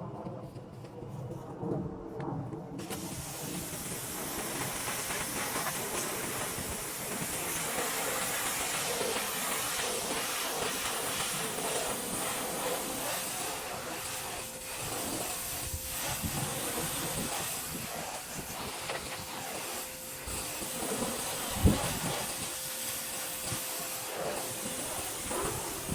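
Electric pressure washer spraying water: the steady hiss of the high-pressure spray starts about three seconds in and keeps going. A single sharp knock a little over twenty seconds in.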